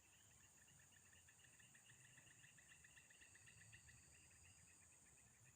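Faint insects chirping: a rapid pulsed trill with a steady high-pitched buzz above it.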